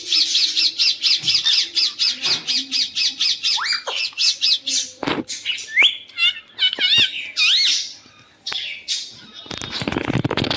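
Pet parrot calling: a fast run of shrill repeated squawks, about six a second, for roughly the first four seconds, then looser squawks and whistles that swoop up and down. A short burst of noise near the end.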